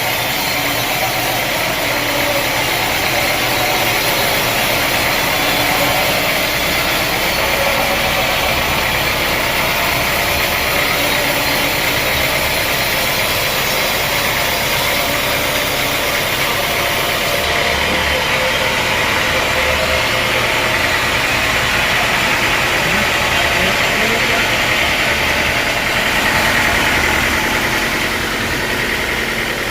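Sawmill machinery running steadily, a loud, even mechanical noise without pauses.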